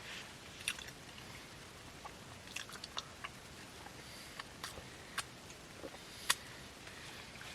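A few scattered, sharp small clicks and crackles over a quiet background, the loudest about six seconds in.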